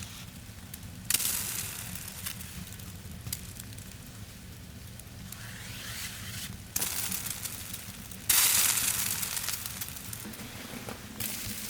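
Wood fire crackling and hissing, with scattered ticks; the hiss jumps up suddenly several times and fades off after each jump.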